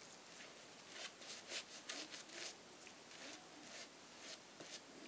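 Shaving brush swished back and forth through thin soap lather, a run of quick bristly strokes, densest between about one and two and a half seconds in. The soap is not building a proper lather.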